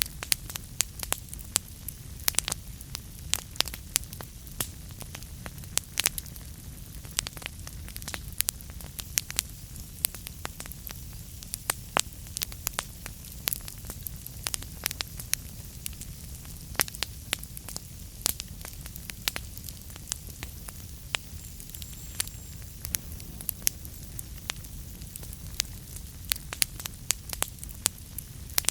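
Wood fire burning in a fireplace: a steady low rumble under frequent irregular sharp crackles and pops.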